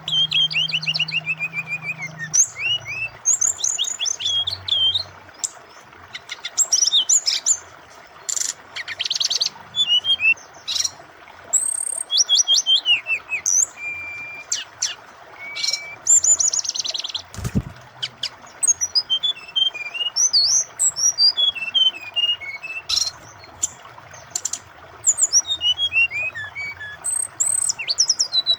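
Brown-chested jungle flycatcher (sikatan rimba dada coklat) singing a fast, varied song of chirps, trills and clear whistled notes, over the steady rush of flowing water. One brief low thud a little past the middle.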